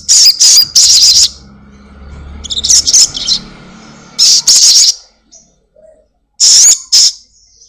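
A sogon (sunbird) giving loud, high, sharp chirps in quick volleys of 'cuit cuit' notes, about five bursts with pauses between them and a faster twittering run in the middle.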